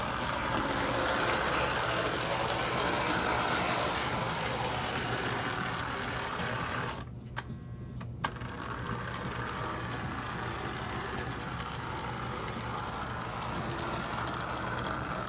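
AMT Budd rail diesel car model running on track: a steady whirring of its electric motor and gears with the rattle of wheels on rail. About seven seconds in, the running sound drops out briefly with a few sharp clicks, then picks up again.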